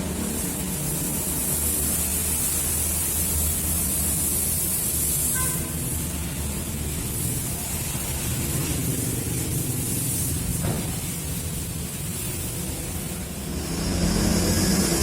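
Car wash spray gun hissing in long on-off bursts over a steady low machine rumble.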